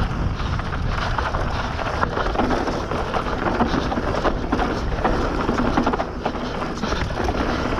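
Bird Zero AM MK3 hardtail mountain bike riding fast down a dry dirt trail: steady tyre noise on the dirt with frequent short knocks and rattles from the bike over rough ground.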